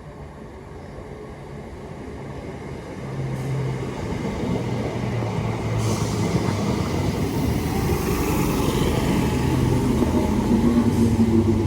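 Class 319 electric multiple unit pulling into the platform, its running sound growing steadily louder, with low steady tones under the rumble.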